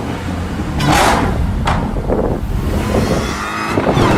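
A car's engine and exhaust running, with two short surges of noise about a second in and a little later, and wind noise on the microphone.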